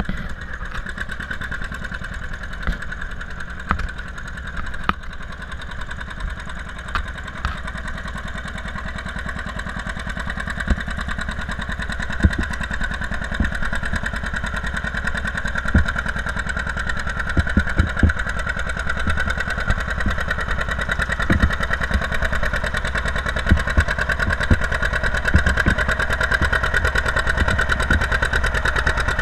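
John Deere 730 Diesel tractor's two-cylinder diesel engine running steadily, with scattered sharp knocks, growing gradually louder from about a third of the way in.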